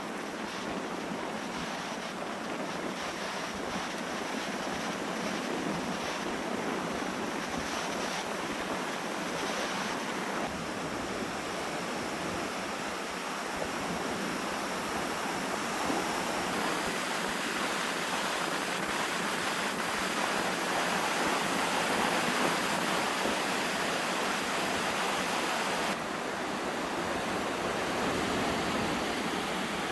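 Lake surf washing onto the beach with strong wind blowing across the microphone: a steady rushing noise that grows slightly louder over the stretch.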